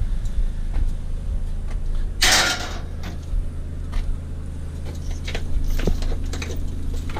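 A vehicle engine idling steadily, under a loud half-second scrape about two seconds in and scattered light clicks and knocks as scrap metal is handled.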